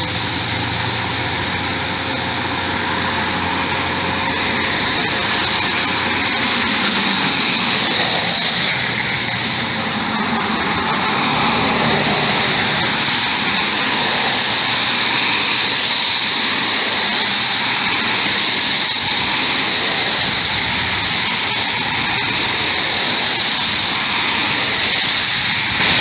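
Steady rain, an even rushing hiss without breaks.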